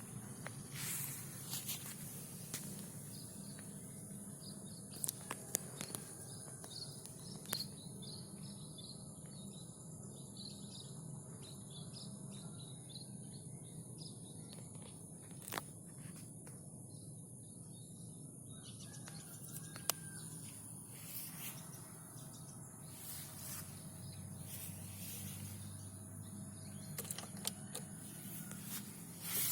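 Quiet outdoor background: a steady high-pitched insect drone over a low hum, with a few faint clicks.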